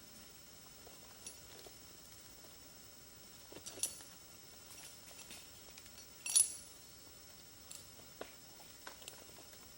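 A few scattered sharp clicks and light metallic clinks, the loudest about six seconds in, over a faint steady high hiss.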